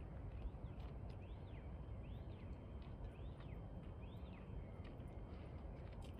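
A bird calling: about four high, thin notes, each rising and falling, repeated roughly once a second over a steady low background rumble.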